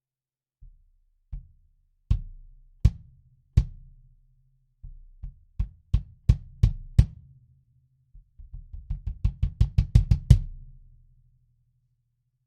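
A 22-inch kick drum with an Evans EMAD2 batter head, damped by a foam ring outside and a pillow inside, struck alone. A few spaced single hits, some soft and some loud, each with a short low ring. Near the end comes a quick run of about seven strokes a second that grows louder and then stops.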